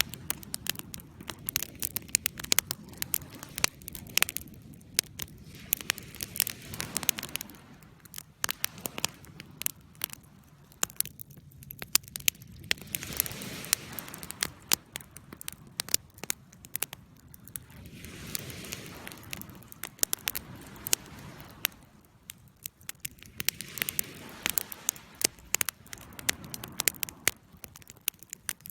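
Wood fire crackling, with many sharp irregular pops and snaps over a soft rushing that swells and fades every few seconds.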